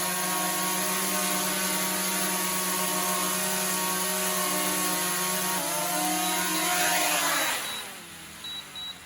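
DJI Mavic Mini quadcopter's motors and Parrot Anafi propellers running with a steady, many-toned whine that shifts pitch about halfway through, then winds down as the motors stop near the end. A few short high beeps follow.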